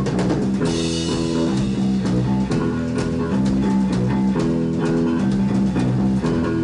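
Rock band playing live: an instrumental passage of guitars, bass guitar and drum kit, with a cymbal crash about half a second in and steady drum hits.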